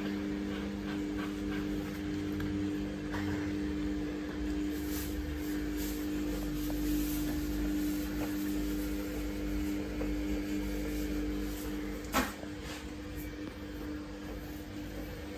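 Samsung WF1700WRW front-loading washing machine running its wash cycle: a steady motor hum over a low rumble from the turning drum. A sharp click comes about twelve seconds in, and the hum drops away as the drum stops.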